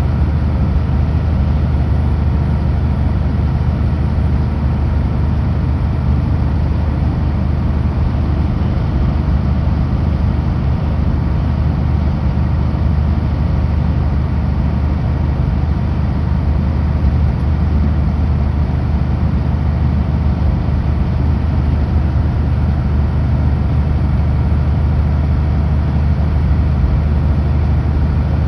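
Kenworth W900L semi truck's diesel engine running steadily at highway cruise, a constant low drone with no change in pitch.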